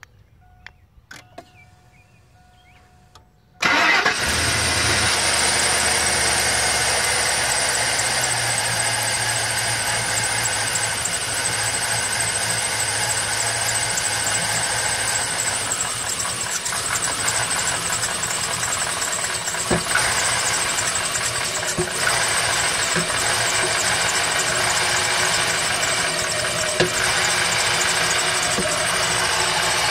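Chevrolet Suburban engine starting about three and a half seconds in, after a few faint clicks, then running steadily at idle with a loud, noisy mechanical sound.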